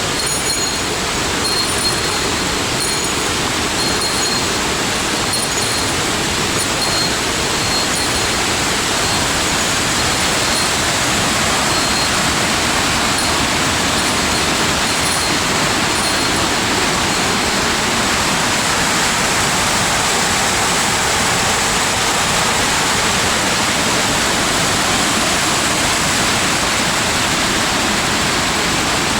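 Rushing water of a mountain gorge waterfall or cascade, a loud steady roar without a break. Faint broken high tones sound over it during the first half.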